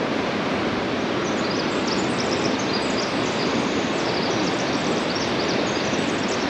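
Steady rush of a fast mountain creek's whitewater, with small high bird chirps over it from about a second and a half in.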